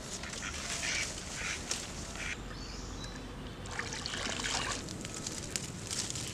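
A duck quacking in several harsh bursts.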